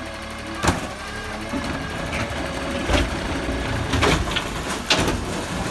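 CNG garbage truck engine running steadily, with four sharp metallic clanks about a second apart, the first within the first second and the last near the end.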